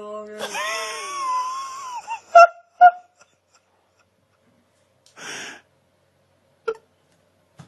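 An animal's drawn-out wailing cry that wavers in pitch, followed by two short, sharp, loud calls about half a second apart, then a brief breathy huff a few seconds later.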